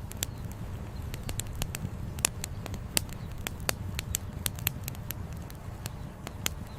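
Campfire with firewood crackling: frequent, irregular sharp pops over a steady low rumble.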